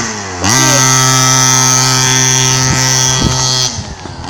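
Mini pocket bike's small engine revved hard: its pitch dips at the start, climbs again about half a second in, holds high and steady for about three seconds, then falls off near the end. It is really loud.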